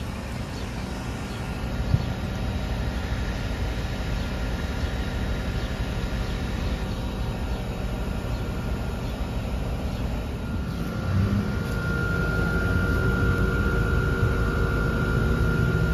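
Heat pump outdoor condensing unit running in cooling mode: a steady hum and fan noise from the compressor and condenser fan, with a single click about two seconds in. A steady high-pitched whine comes in about ten seconds in and gets louder.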